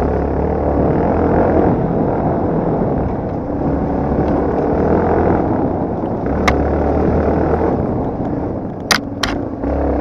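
Yamaha TT250R's single-cylinder four-stroke engine running steadily as the motorcycle rides. There is a sharp knock about six and a half seconds in and two more close together near the end.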